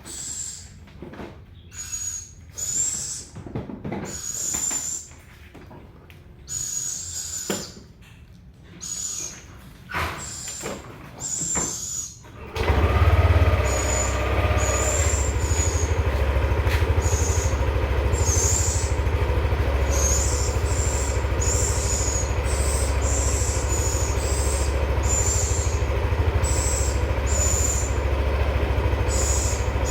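Young owls giving repeated short hissing begging calls, about one a second, the sign of a hungry owlet asking for food. About twelve seconds in, a loud steady low rumble starts beneath the calls and continues.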